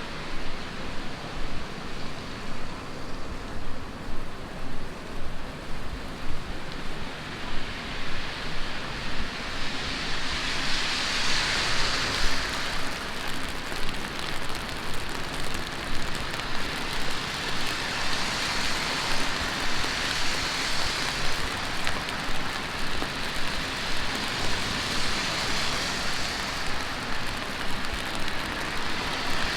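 Heavy rain falling steadily on a city street, a dense even hiss. The hiss swells and fades three times, about a third of the way in, past the middle and near the end.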